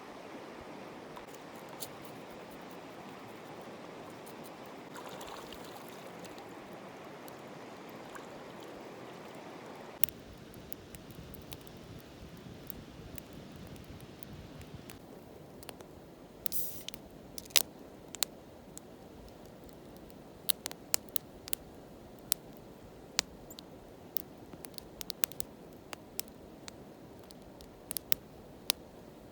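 Steady rush of flowing water for about ten seconds. It then gives way to a quieter background with scattered sharp clicks and taps.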